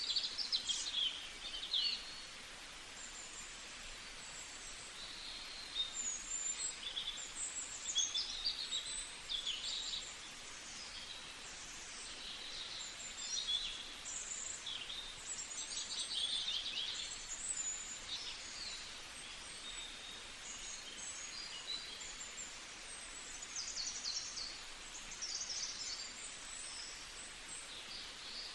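Birds chirping over a steady background hiss.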